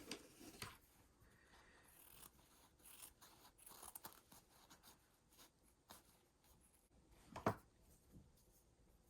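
Faint rustling of fabric and small scattered clicks as cloth pieces are handled and pinned together by hand. One sharper tap comes about seven and a half seconds in.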